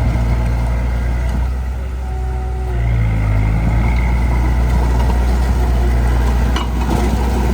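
Heavy diesel engine of earthmoving machinery running steadily. It eases off about two seconds in and picks up again a second later, with a short knock near the end.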